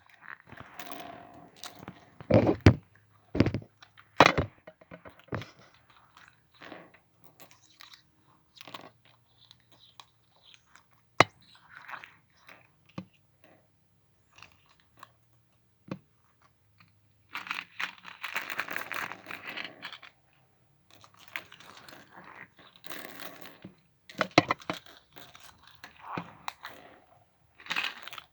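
Slime with go stones mixed in, kneaded and squished by hand: sticky crackling and squelching, broken by sharp clicks where the stones knock together.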